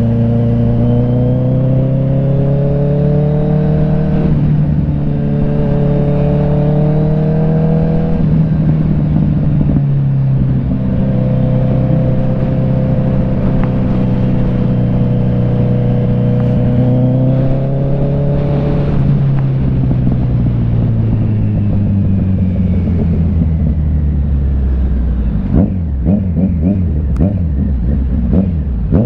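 Kawasaki Z900 inline-four through an aftermarket CS Racing exhaust, ridden under way: the engine note climbs and drops back several times as it is run up through the gears, then falls away as the bike slows. Near the end come a few sharp exhaust pops on the overrun, the popping that comes from the air-injection (AIS) system being left unblocked.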